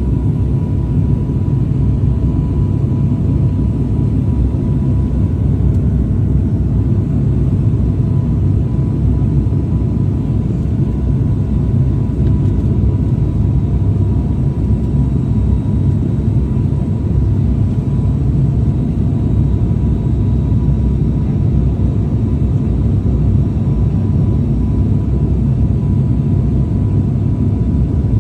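Aircraft in flight: a steady low engine drone with a faint high tone running through it, unchanging throughout.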